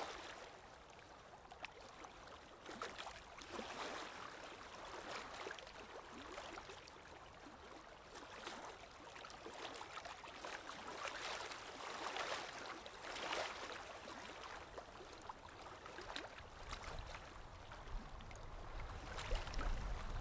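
Flowing water of a waterfall, a steady rush that swells and eases every second or two, with a low rumble coming in near the end.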